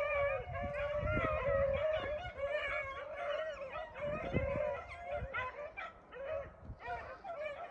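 A pack of beagles baying on a freshly jumped cottontail rabbit, several hound voices overlapping in long, drawn-out bawls that thin out after about five seconds. Wind rumbles on the microphone underneath.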